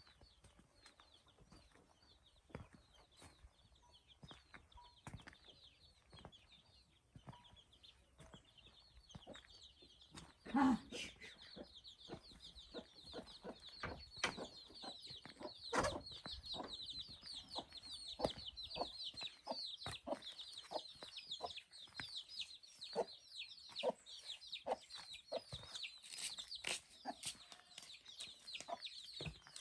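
Chickens clucking, with a fast, continuous run of short high peeps from about a third of the way in, among scattered knocks and one louder thud.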